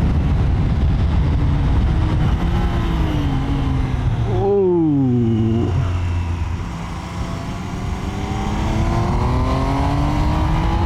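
Triumph Trident 800's 798cc three-cylinder engine under way. Its note climbs, then falls sharply in pitch about halfway through as the bike slows, and rises steadily again near the end as it accelerates.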